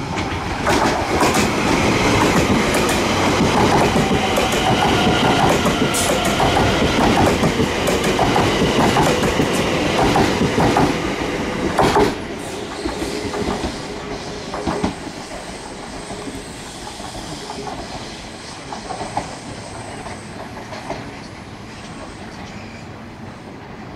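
A train running along the track close by, its wheels clattering over rail joints with some squealing. It is loudest for about the first twelve seconds, with a sharp knock near the end of that, then fades away.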